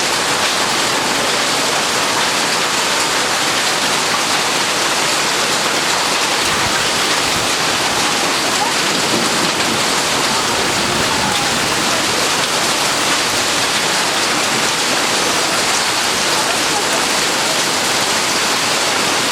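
Heavy thunderstorm downpour: rain pouring down in a dense, steady hiss without a break.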